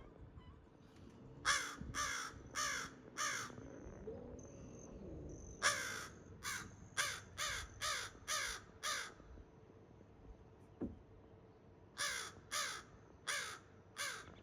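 A bird calling in three runs of short repeated calls: four, then seven, then four, each about half a second apart.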